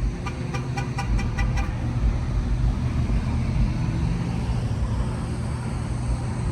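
A vehicle horn tooting in a quick run of about eight short beeps lasting a second and a half, over a steady low hum.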